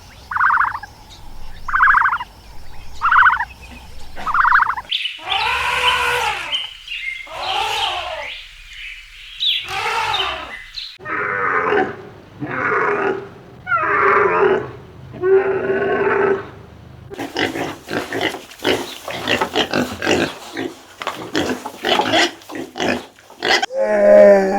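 A run of different animal calls one after another: five short calls about a second apart, then long rising-and-falling cries, then several drawn-out calls, and last a quick string of short grunt-like sounds.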